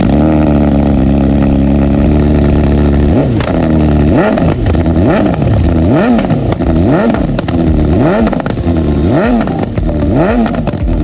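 BMW 1000R inline-four motorcycle engine held at a steady high rev for about three seconds, then revved up and down repeatedly, about once a second.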